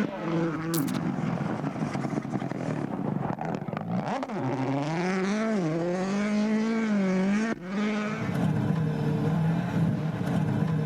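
Rally car engine at high revs, its pitch climbing and then dropping sharply several times as it shifts through the gears. There is an abrupt change in the sound about three-quarters of the way through, like a cut to another car.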